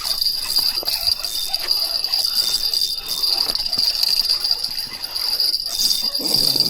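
A steady, high-pitched insect chorus, with scattered light clicks and rattles while a hooked fish is being reeled in.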